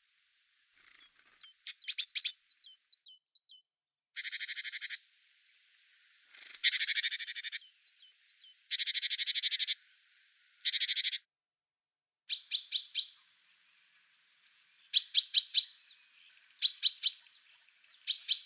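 A small songbird calling repeatedly: about nine short, rapid, high trills and buzzy rattles, each under a second long, separated by pauses, with faint single chirps between them.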